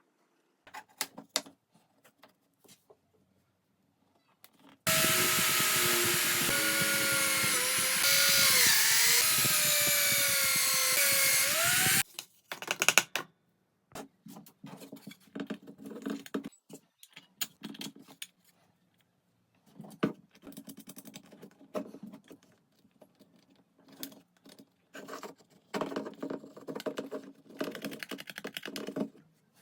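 Electric power tool working wood: scattered knocks and clicks of handling, then the motor runs for about seven seconds, its pitch dipping briefly as it takes load, and cuts off suddenly, followed by more clicks, knocks and rubbing of wooden pieces.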